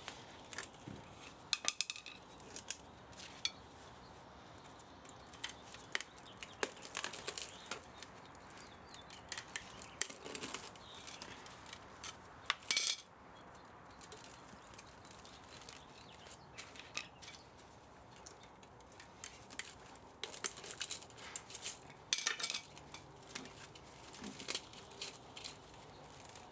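Irregular metallic clinks, taps and scrapes of hand tools and loose metal parts being handled while an old electric spa motor is dismantled for scrap, in scattered clusters with short pauses between.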